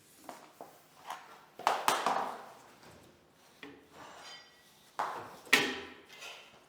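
Irregular knocks and clatters of vinyl click planks being handled and tapped together, with the loudest clusters about two seconds in and again about five and a half seconds in, and a brief high ring in between.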